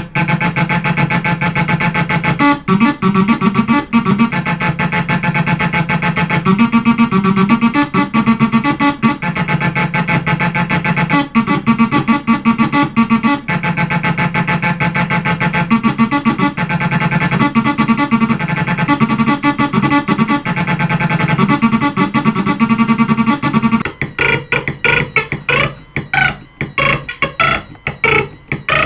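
Homemade electronic synthesizer playing a sustained, pitched sequence whose pattern shifts every couple of seconds; near the end it breaks into fast, choppy pulses.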